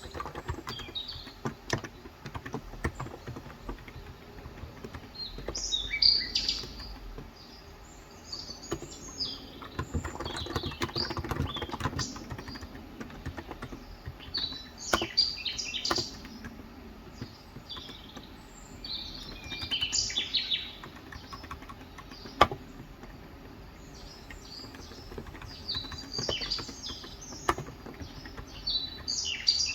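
Intermittent typing on a Cox Endeavor tenkeyless keyboard with 35 g electro-capacitive (non-contact) switches: scattered keystrokes with a quicker run about a third of the way in. Birds chirp over it in repeated short bursts.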